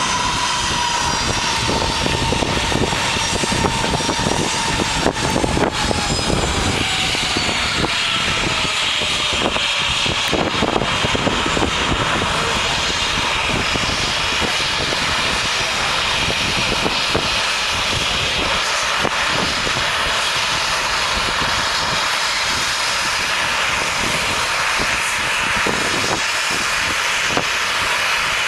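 Airplane engines during takeoff: a loud, steady roar with a whine that slides down in pitch over the first ten seconds.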